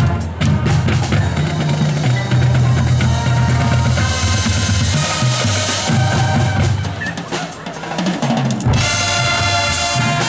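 Marching band playing: the drum line's snare and bass drums are prominent over sustained low brass, with the music thinning briefly after about seven seconds before the full band, brass included, comes back in near the end.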